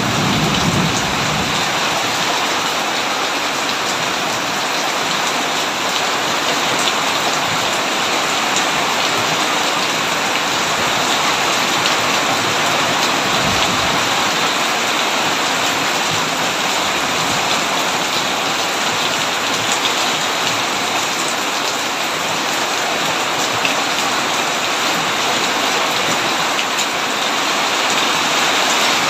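Heavy rain falling steadily on a tin roof. A low rumble of thunder dies away in the first second.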